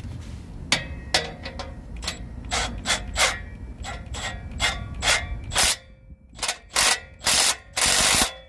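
Hand socket ratchet clicking as it runs a bolt down into the exhaust flange at the manifold, in short uneven strokes, with two longer quick runs of clicking near the end.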